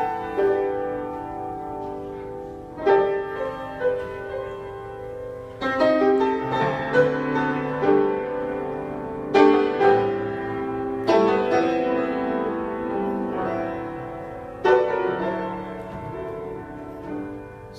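Slow gospel piano introduction: sustained chords struck every few seconds and left to ring.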